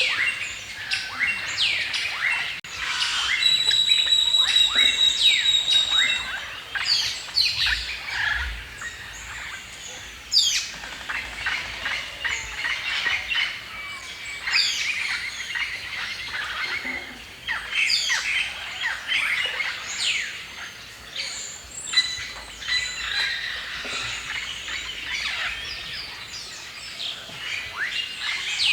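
Many songbirds chirping and singing in a forest chorus, a dense run of quick high chirps with one bird holding a long, thin whistled note a few seconds in.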